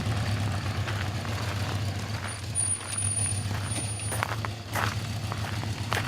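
1975 Honda CB750 Super Sport's inline-four engine running steadily at low revs.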